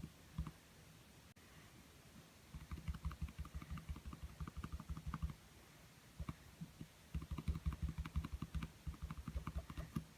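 Rapid dull tapping on a small canvas as acrylic paint is dabbed on: a couple of single taps, then two dense runs of quick taps, one starting about two and a half seconds in and another about seven seconds in, with a short pause between.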